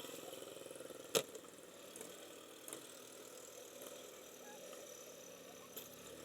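Motorcycle engine running steadily, with a sharp click about a second in and a couple of fainter clicks later.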